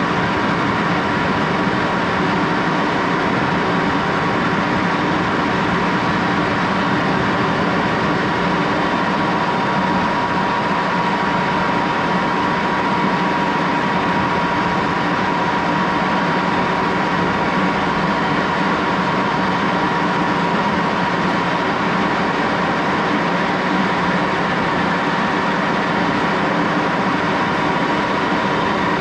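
Axelson engine lathe running steadily at speed: an even machine hum with one clear high tone held above it.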